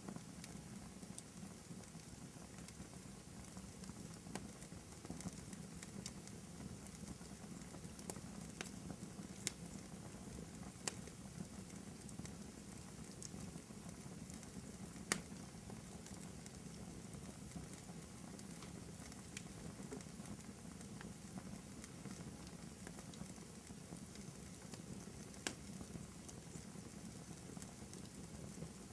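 Wood fire burning in a fireplace: a steady low hiss of the flames with scattered sharp crackles and pops from the burning logs, a few louder pops standing out.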